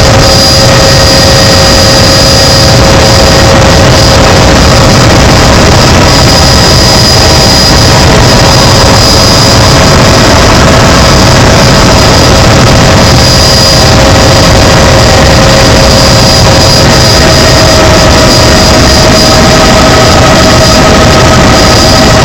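Helicopter turbine engine and rotor running steadily in flight: a loud, unchanging whine made of several held tones over a dense rushing noise.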